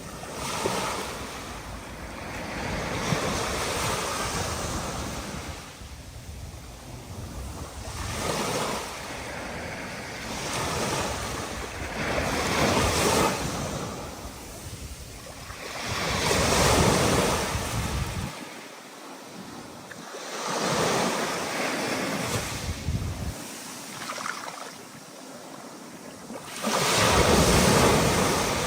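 Rough sea in a storm: waves breaking and washing in, one surge of rushing water every two to four seconds, with wind. The loudest wave comes near the end.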